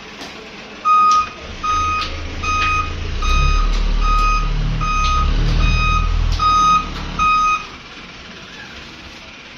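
Electronic beeper sounding about nine short beeps at one pitch, evenly spaced a little under a second apart, over a low engine rumble; both stop a couple of seconds before the end.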